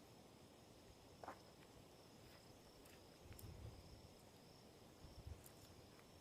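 Faint, steady high-pitched trill of crickets at night, with a couple of soft low thumps about halfway through and near the end.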